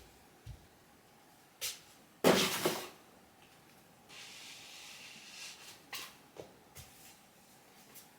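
Tidying-up handling noises: a few soft knocks and clicks, a louder clatter a little over two seconds in, then a soft rustling hiss for about two seconds, followed by more light clicks.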